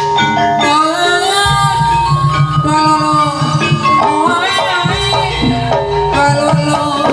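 Kuda lumping accompaniment music, played loud: a Javanese gamelan-style ensemble with drums and tuned percussion, and a melody line that slides between notes.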